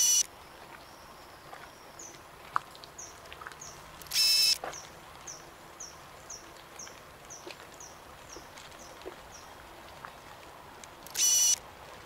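Rainforest birds calling. Three loud, harsh, buzzy calls about half a second each come at the start, about four seconds in and near the end. In between, a run of about a dozen soft, high chirps falls in pitch, about three a second.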